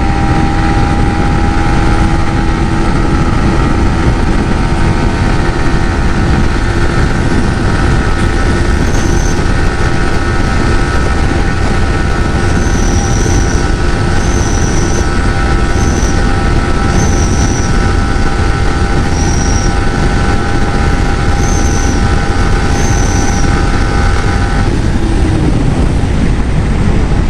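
Yamaha MT-15's 155 cc single-cylinder engine held at high revs in fifth gear near its top speed, with heavy wind rush on the microphone. Near the end the throttle closes and the engine note falls away.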